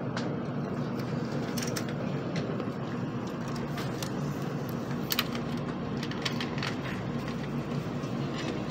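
Inside a Nozomi Shinkansen bullet train coasting slowly into a station: a steady low running hum and rumble, with a few sharp clicks and rattles scattered through it.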